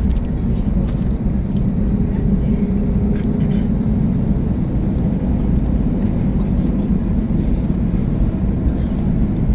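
Steady low rumble in the cabin of an Airbus A321neo taxiing on the ground, the engines running at taxi power.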